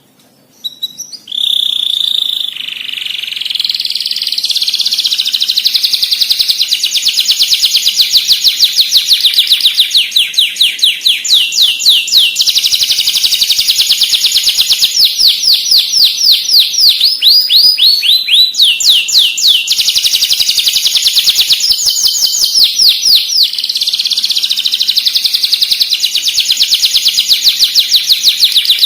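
Long-tailed shrike (cendet) singing a loud, continuous song of rapid repeated high chirps, many notes a second, in the varied mimicking style kept as a master recording.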